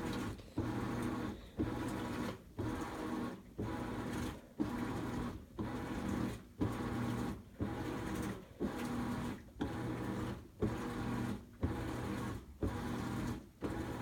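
Top-load washing machine agitating: its motor hums in strokes that break off and restart about once a second as the agitator swings back and forth. It is running normally, the coins that had jammed the agitator removed.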